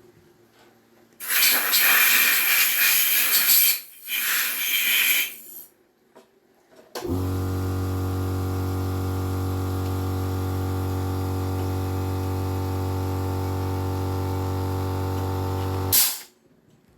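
Two bursts of spraying hiss, the first about two and a half seconds long and the second shorter, then a steady electric hum that starts suddenly and runs unchanged for about nine seconds before cutting off.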